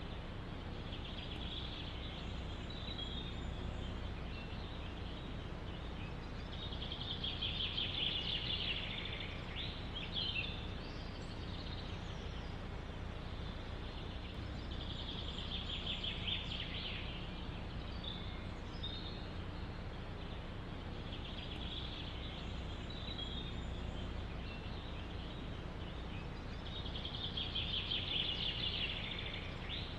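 A songbird repeats a short trilling song phrase about every six seconds over a steady low rumble of wind in the forest.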